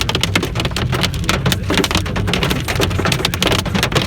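Pea-sized hail pelting a car's windshield and roof in a rapid, dense clatter of ticks, over the low hum of the moving car, heard from inside the cabin.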